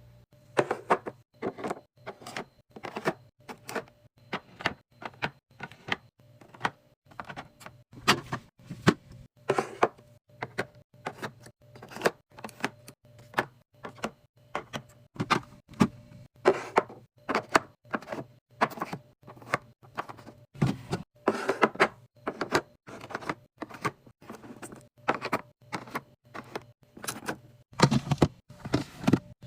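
Irregular clicks and knocks of containers and packages being handled and set down while a fridge is restocked, about one or two a second, over a faint steady hum.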